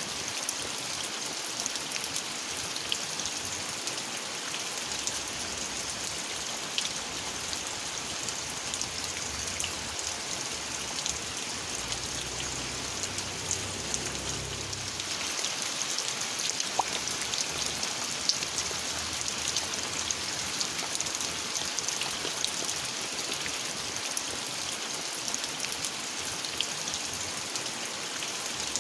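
Steady rain falling, with many sharp individual drop hits over an even hiss.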